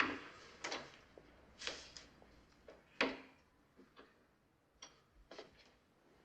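Footsteps on a hard hospital floor, about seven separate steps spaced roughly a second apart.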